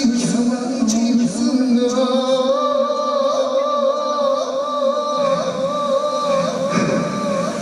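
Male pop singer singing live, holding one long high note with an even vibrato over the backing music after a lower held pitch. Near the end the note stops and a loud wash of noise takes over.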